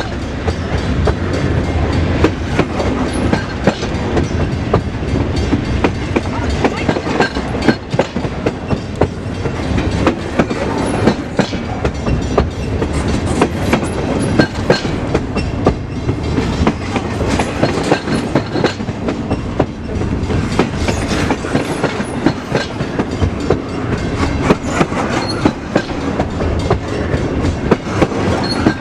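A freight train passing close by, its car wheels clicking over rail joints with a steady rumble and many sharp irregular clicks.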